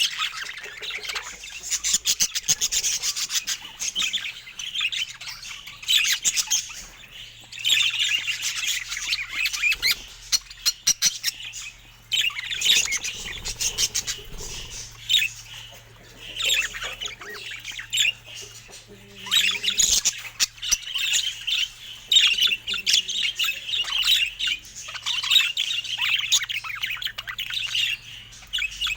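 Budgerigars chattering, squawking and chirping in rapid, busy bouts a few seconds long with short lulls between them.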